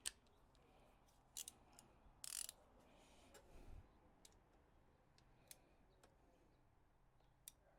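Faint, scattered clicks and taps of hand tools being handled on the engine's valvetrain, with a short scrape about two seconds in.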